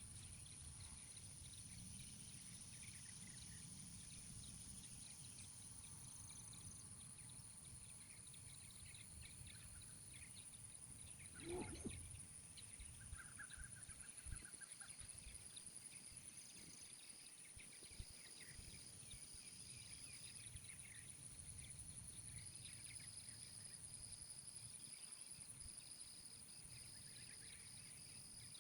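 Faint outdoor ambience, near silence, with one short animal call about twelve seconds in and a few faint knocks.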